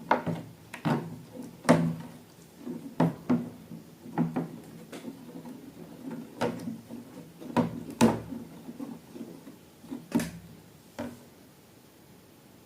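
Irregular knocks, taps and clicks of objects being handled, about a dozen at uneven spacing, stopping about 11 seconds in.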